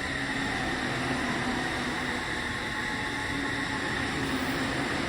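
Inside an Odakyu 4000-series electric train car running along the line: a steady rumble of wheels on rail with a low, even hum from the traction equipment.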